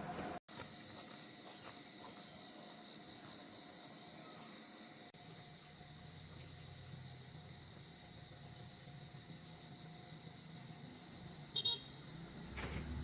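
Insects chirping in a steady, fast-pulsing high trill, with a short sharp sound near the end.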